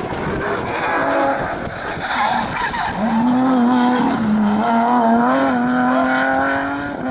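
Rally car's engine revving hard on a hillclimb stage. Its pitch wavers early on, then holds high and nearly steady from about three seconds in.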